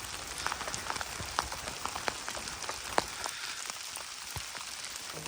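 Rain falling steadily, a constant hiss with many separate drops hitting close by.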